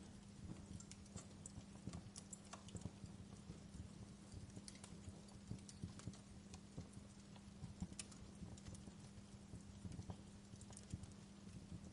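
Wood fire crackling in a fireplace: faint, irregular small pops and snaps over a low steady hum.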